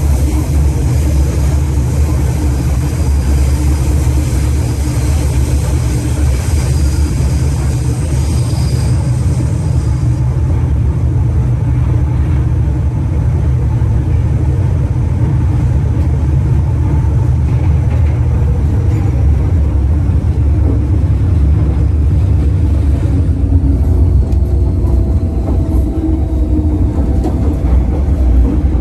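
Steady low rumble of an MTR M-Train electric multiple unit running at speed, heard from inside the car. This is the wheels and bogies on the track, with a hiss that eases off about a third of the way through.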